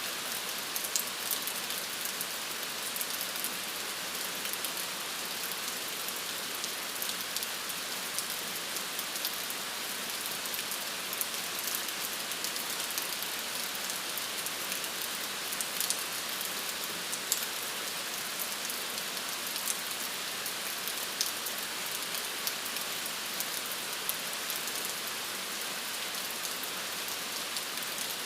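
Steady rain falling on a surface, an even hiss scattered with the sharp pats of individual drops.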